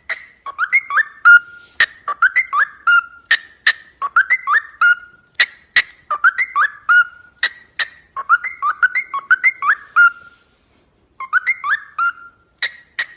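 Parrot whistling the same short rising-and-falling phrase over and over, about nine times, with sharp clicks between the phrases.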